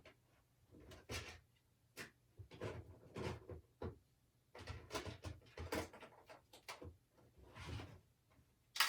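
Faint rummaging while searching for supplies: a string of short knocks, clicks and scraping rustles, with a sharper click near the end.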